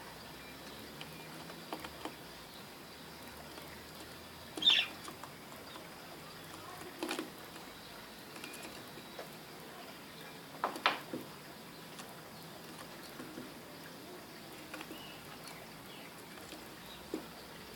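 Ground doves pecking and scratching at seed on a roof: scattered sharp taps and clicks a few seconds apart over a faint steady hiss, the loudest about a third of the way in.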